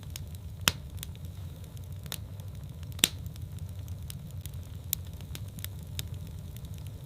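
Wood fire burning in a fireplace, crackling with irregular sharp pops over a steady low rumble of the flames. The two loudest pops come about a second in and about three seconds in.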